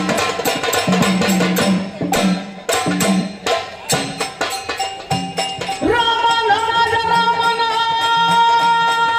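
Folk devotional music of a gondhal: a stretch of rapid drumming, then about six seconds in a singer starts a long held note over the drums.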